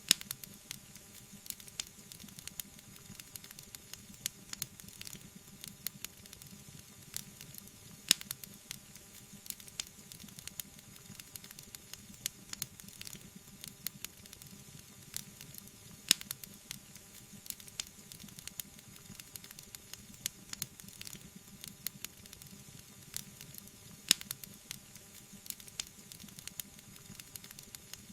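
Wood fire in a fireplace crackling: a steady patter of small sharp crackles over a low hiss, with four louder pops spaced evenly through.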